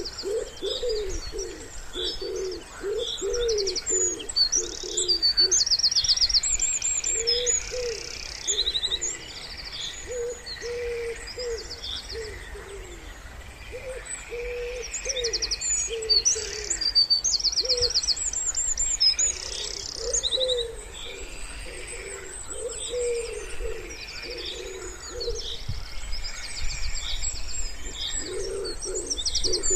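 Wood pigeon cooing in repeated low phrases that come in groups with short pauses between them. Small songbirds sing rapid high trills and chirps over it.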